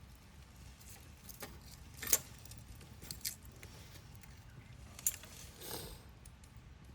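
Campfire wood crackling: scattered sharp pops and snaps, the loudest about two seconds in and another about five seconds in, over a low steady background.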